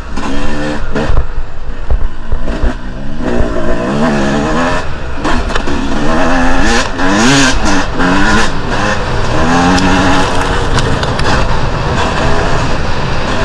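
Two-stroke enduro dirt bike engine being ridden off-road, its pitch repeatedly climbing and dropping as the throttle is opened and closed, with a few sharp knocks in the first half.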